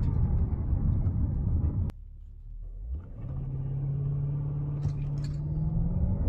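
2013 Hyundai Equus's V8 engine heard from inside the cabin during a 0-60 acceleration run. The sound cuts off suddenly with a click about two seconds in. After a quiet moment, a steadier engine drone holds one pitch and begins to climb near the end.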